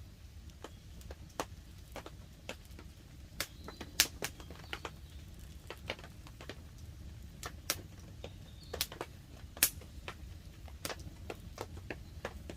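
Wood campfire crackling, with irregular sharp pops and snaps over a low steady rumble. Two louder pops come about 4 seconds in and near 10 seconds.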